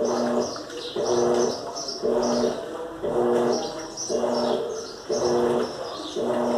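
Electrolux LAC13 top-loading washing machine agitating during its soak stage: the agitator swings back and forth about once a second, each stroke a steady motor hum with high squeaky chirps on top.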